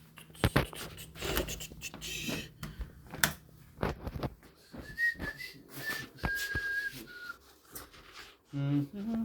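Knocks and clatter of work in the first few seconds, then a man whistling a few short, high notes, followed by a brief hum near the end.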